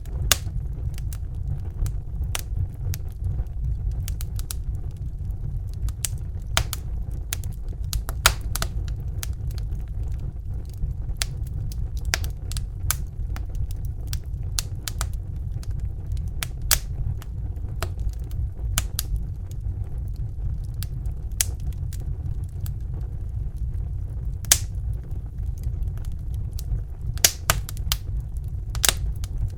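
Crackling fire: irregular sharp pops and snaps, some louder than others, over a steady low rumble.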